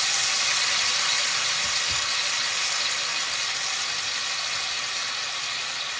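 Chicken thighs sizzling in hot oil in a skillet as they sear and brown, a steady hiss that eases off slightly.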